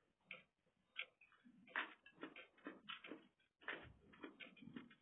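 Quiet, irregular mouth clicks and smacks of a person chewing food eaten with the fingers.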